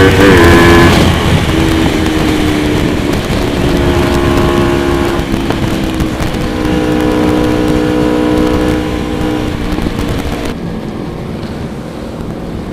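Motorcycle engine running under way, with wind rush on the microphone. The engine pitch dips right at the start, then holds fairly steady, and the sound eases off over the last couple of seconds.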